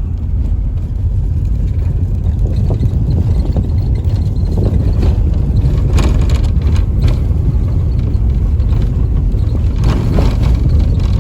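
Steady low rumble of a moving vehicle, with a few brief rattles about halfway through and near the end.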